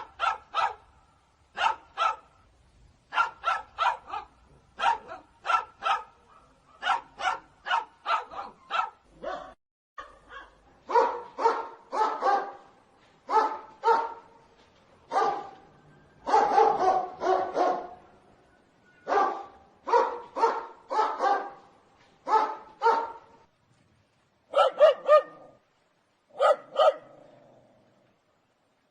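Dogs barking in repeated short volleys of two or three barks, with brief gaps between; the barks in the first ten seconds are higher-pitched than the fuller, lower barks that follow.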